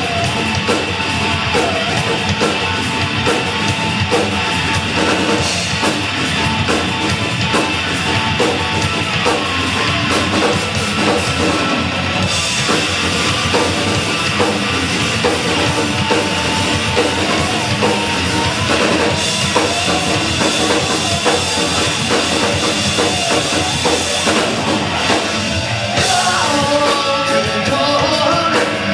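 Live rock band playing loud and steadily, with a drum kit driving it.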